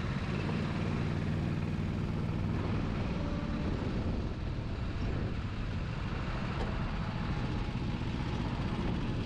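Small go-kart engines running steadily, with wind buffeting the microphone.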